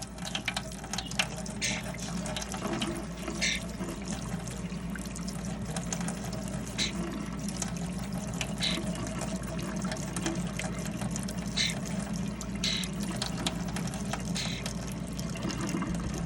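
Water running steadily from a tap. Short, sharp high sounds come every second or two over the flow.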